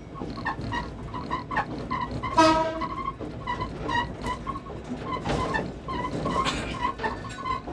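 Railway train running, with a steady low rumble under repeated short ringing pips of level-crossing bells. A brief, louder pitched tone sounds about two and a half seconds in.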